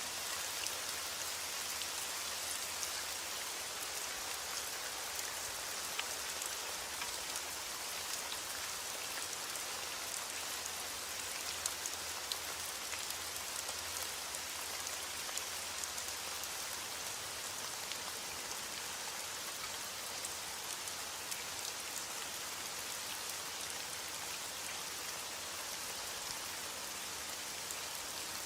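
Steady rainfall on a surface, a dense even patter with many individual drop ticks scattered through it. No thunder.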